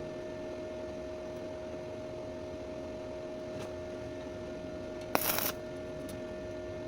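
A steady hum with two faint steady tones, broken about five seconds in by one short, sharp metallic clack followed by a brief rattle.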